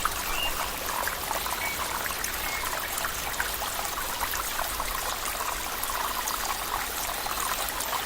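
Water flowing steadily in a stream, with fine trickling and splashing.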